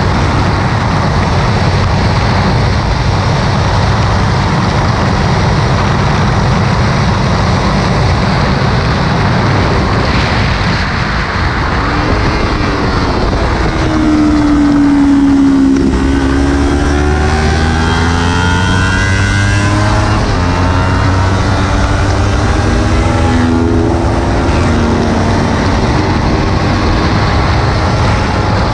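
Kawasaki Ninja 300 parallel-twin engine at track speed under heavy wind rush on the camera. About halfway through the revs fall as the bike slows, then the engine note climbs in steps as it accelerates back up through the gears.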